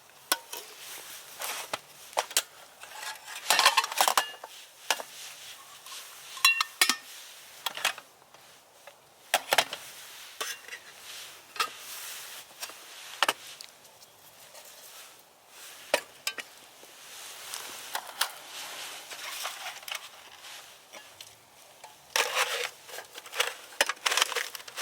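Metal camp gear being handled: irregular clinks, knocks and rattles, with a brief ringing ping about six and a half seconds in and a denser clatter near the end.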